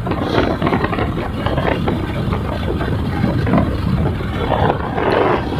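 Hero Glamour motorcycle running steadily down the road, engine and road noise mixed with wind rushing over the microphone.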